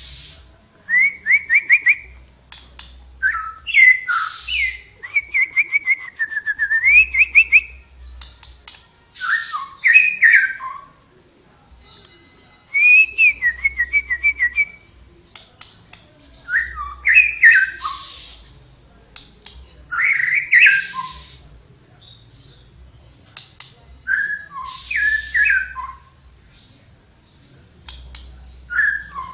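Tledekan songbird singing loudly: short phrases of clear, sliding whistles, some run into fast trills, repeated every second or two with brief pauses between.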